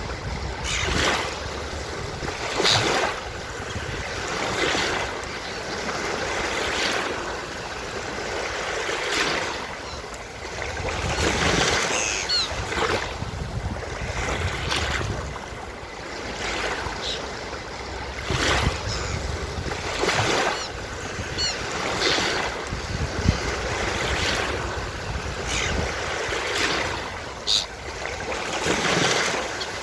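Ocean surf washing onto a beach, wave after wave swelling and falling back every couple of seconds, with a few brief high seagull calls now and then.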